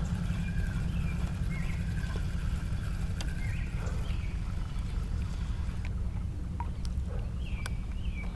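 Birds calling in short chirps a few times, over a steady low rumble, with a few faint clicks.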